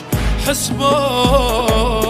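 Arabic song: a voice holding a wavering, ornamented sung line over deep, repeated bass-drum hits.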